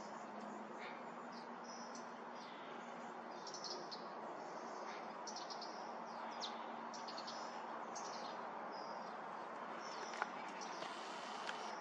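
Small birds chirping, with many short, high-pitched notes in quick runs over a steady background noise, and a single sharp click about ten seconds in.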